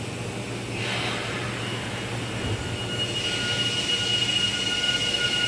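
Nankai electric commuter train moving off from the platform. There is a short hiss of air about a second in, then a steady high-pitched whine with a second, lower tone, growing louder as the train gathers speed.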